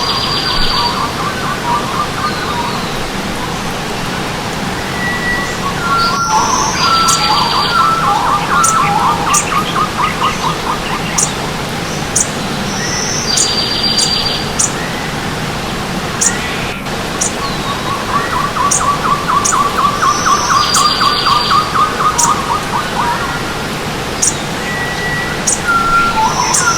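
Stream water running steadily under several songbirds calling in a forest. A rapid trill and a short buzzy high call come round about every seven seconds, with thin high chirps scattered between.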